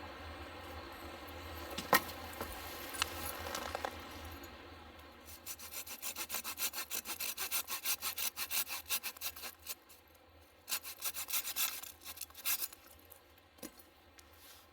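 Hand saw cutting through firewood in quick, even strokes, about five a second, in two bouts with a short pause between. A sharp knock about two seconds in.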